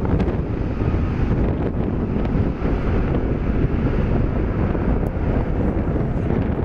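Jet airliner engines as a steady low rumble, mixed with wind buffeting the microphone.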